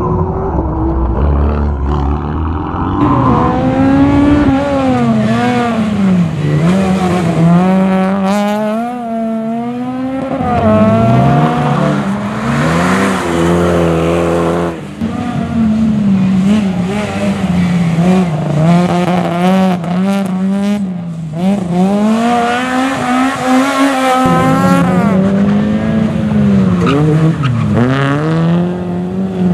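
Rally car engines revving hard, pitch climbing through each gear and dropping at the shifts, over and over, with engine braking and blips between.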